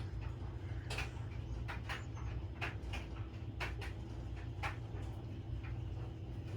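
Hunter Oakhurst ceiling fan running on low speed: a steady motor hum with a faint steady tone above it, and light clicks roughly once a second.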